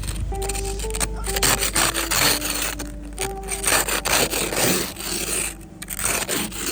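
Ice scraper scraping ice off a car in repeated rough strokes.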